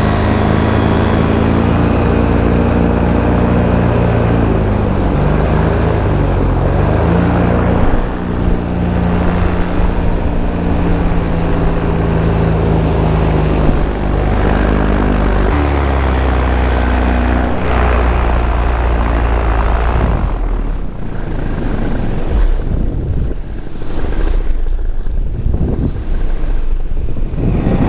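Paramotor's two-stroke engine and propeller running in flight, the pitch dipping and rising a few times with the throttle. About twenty seconds in the engine tone drops out, leaving wind rushing over the microphone.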